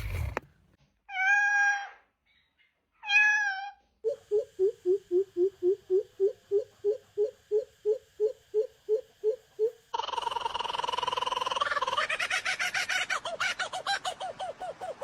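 A cat meows twice. Then comes a run of short, evenly repeated calls, about three a second, and about ten seconds in a different sound starts: a steady tone with rapid pulsing.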